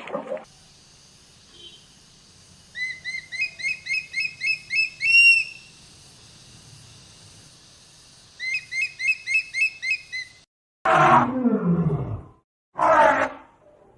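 A bird gives two runs of quick, evenly spaced high chirps, about three a second. Near the end, a large animal gives two loud calls, each dropping steeply in pitch.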